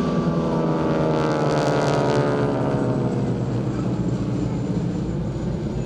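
Harvard aircraft with Pratt & Whitney nine-cylinder radial engines flying past, the engine and propeller pitch falling steadily as they go by. The sound is loudest in the first couple of seconds and eases a little toward the end.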